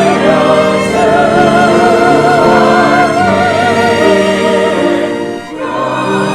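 Choral and orchestral Christmas music: a singing voice with wide vibrato carries the melody over sustained orchestral chords, with a brief drop in level about five and a half seconds in.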